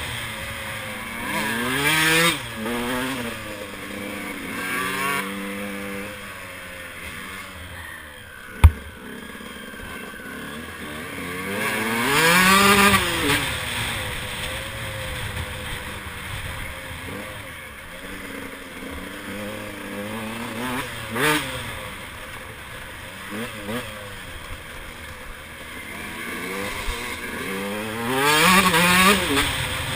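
KTM 125 EXC two-stroke single-cylinder engine revving up and down through the gears, its pitch climbing and falling again and again, with the loudest rev-ups about twelve seconds in and near the end. A single sharp knock about nine seconds in.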